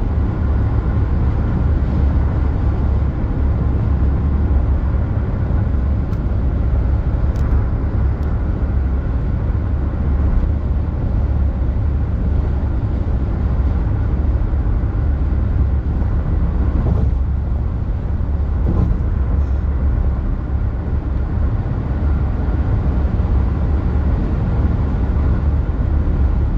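Steady low rumble of a car driving along the road: engine and tyre noise, even throughout.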